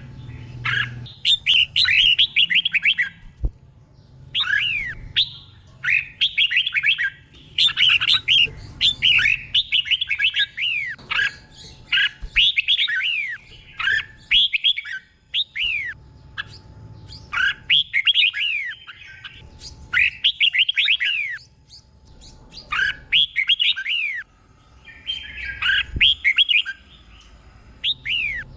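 Red-whiskered bulbul singing: short phrases of quick, down-sliding whistled notes repeated in bursts of a second or two with brief pauses between.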